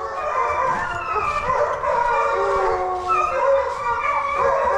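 A pack of deer hounds baying together, several long overlapping howls at once: the dogs are on the trail of a deer.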